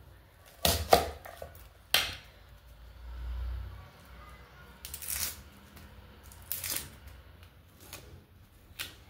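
Kitchen food preparation: a handful of separate knocks and rustles a second or two apart, typical of handling and cutting onions, with a short low hum about three seconds in.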